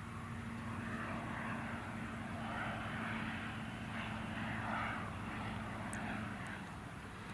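MBB/Kawasaki BK 117 C1 twin-turbine helicopter in flight, a steady hum of turbines and rotor that swells slightly and eases again.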